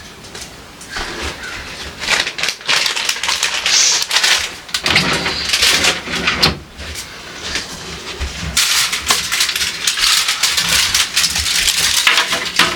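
Irregular rustling, scraping and light clattering of containers and food being handled, with many small clicks and knocks, in two busy stretches.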